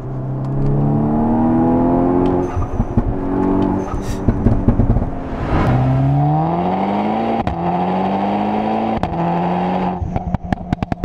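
Tuned Volkswagen Golf 6 R's turbocharged four-cylinder engine accelerating hard through several quick DSG upshifts, the pitch climbing and dropping at each shift, with whooshes from the aftermarket dump valve. Near the end, on lift-off, a rapid string of pops and crackles from the exhaust.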